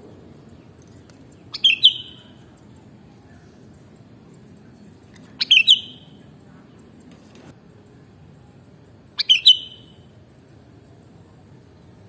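Sooty-headed bulbul (kutilang) calling: three short, quick chirping phrases about four seconds apart, over a low steady background noise.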